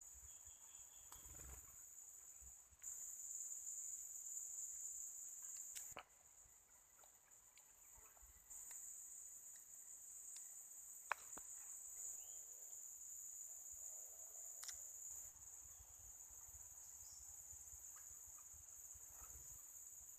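Steady high-pitched trilling of an insect chorus, such as crickets or cicadas, stepping abruptly louder and quieter a few times, with a few faint clicks.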